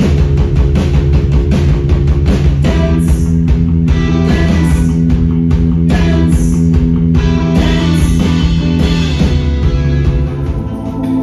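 Rock band playing loud electric guitar over a steady beat, the sound thinning out near the end.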